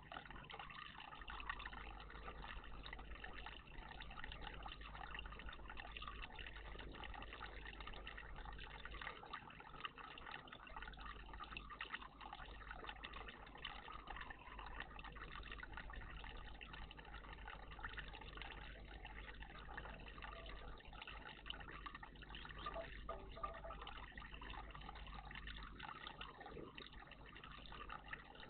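Water trickling and splashing steadily in a garden bird bath.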